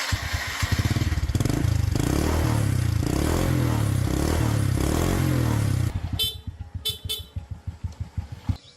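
Small petrol engine running with a steady pulsing rumble. About six seconds in it slows to separate firing beats and then cuts off.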